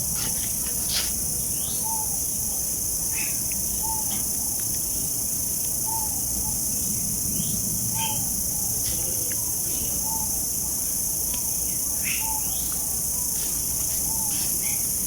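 Steady high-pitched insect chorus, with a bird repeating a short call about once a second and a few brief sharp chirps.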